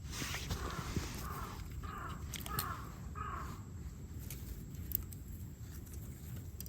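A crow cawing about five times in a quick series.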